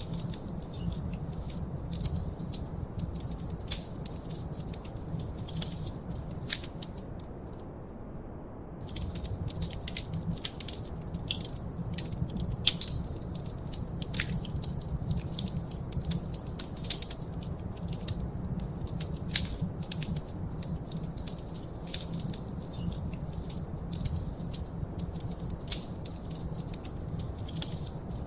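Wood fire crackling in a fireplace: frequent sharp pops and snaps over a low steady rumble. The crackling drops out for about a second roughly eight seconds in.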